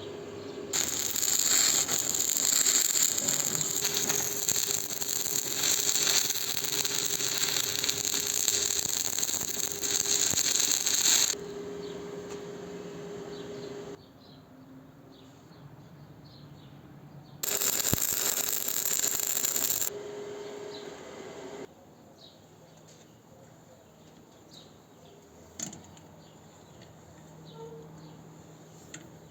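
A power tool working metal in two long runs, the first about ten seconds, the second about two and a half, with a steady motor hum beneath and small mechanical clicks in the quieter stretches.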